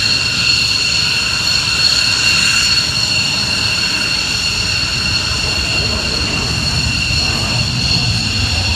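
F-15 fighter's twin turbofan engines running on the ground with a loud, steady high-pitched whine over a low rumble.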